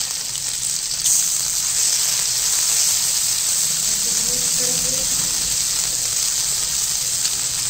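Ginger-garlic paste sizzling in hot oil with cumin seeds in an iron kadhai as it is stirred: a loud, steady hiss that turns brighter about a second in.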